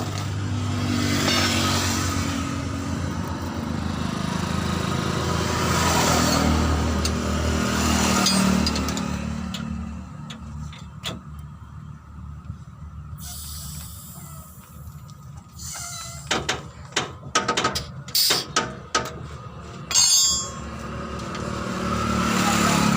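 Road traffic passing, with engine hum and swells of vehicle noise that rise and fade. In the second half, a quick run of sharp knocks and clanks.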